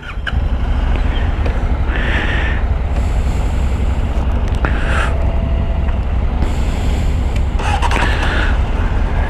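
Motorcycle engine running with a steady low rumble, starting up suddenly at the very beginning.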